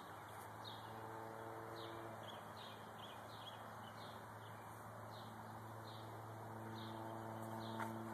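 A small bird chirping over and over, short falling chirps about two a second, over a steady low hum.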